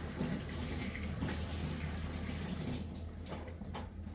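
Water running steadily, as from a tap, thinning out about three seconds in.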